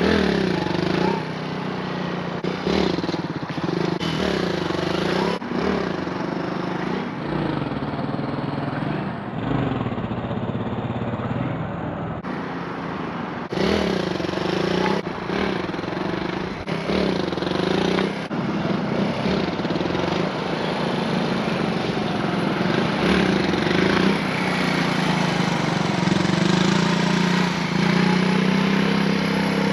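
Suzuki dual-sport motorcycle engine being revved and let off again and again, its pitch dipping and climbing every second or two, over a steady rush of noise, as in repeated wheelie attempts.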